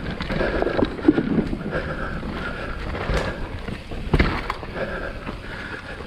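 Mountain bike riding down a dirt trail: tyre noise and rattling of the bike over the ground, with wind on the microphone and sharp knocks about three and four seconds in.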